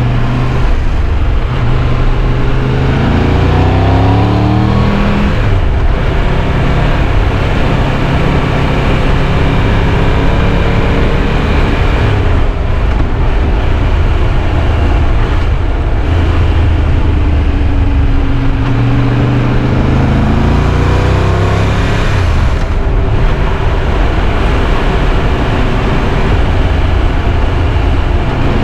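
Triumph Tiger 1200 Rally Pro's three-cylinder engine under way over steady wind and road rush. Its pitch climbs and drops sharply about five seconds in, like an upshift, then later falls away and climbs again.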